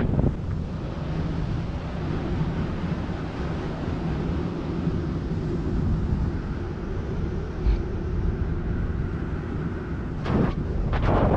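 Strong wind rushing and buffeting over the microphone of a speed-flying pilot in flight, a steady low rumble with a brief louder gust about ten seconds in.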